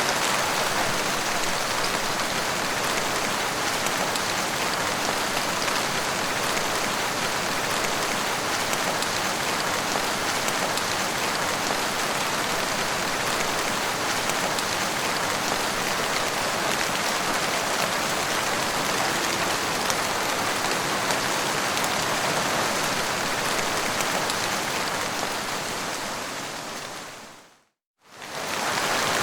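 Steady rain falling as a dense, even hiss. Near the end it fades out, stops for a moment, and fades back in.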